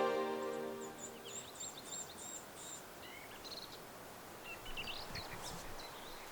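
Small songbirds calling in short, high chirps, in two scattered spells, over quiet forest background noise. A tail of music fades out in the first second.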